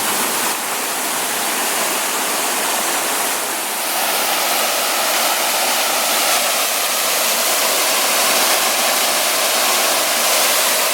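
Waterfall pouring steadily, a loud, constant rush of falling water close by.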